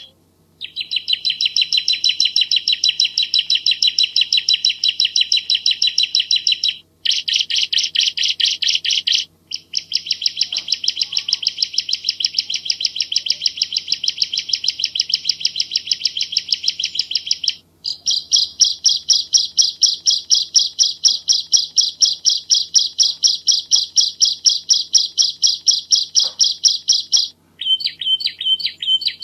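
Bar-winged prinia (ciblek jawa) singing long runs of rapid, evenly repeated high notes, several to the second, in bouts of several seconds with brief breaks between them.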